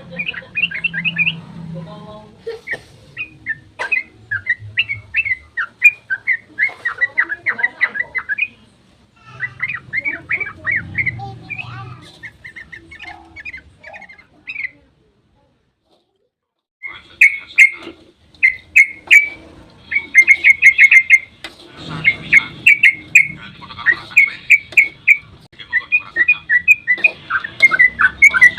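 Yellow-vented bulbul (trucukan) singing its fast chattering song: runs of quick, bubbly notes in bursts, broken by about two seconds of silence halfway through, then resuming louder and denser.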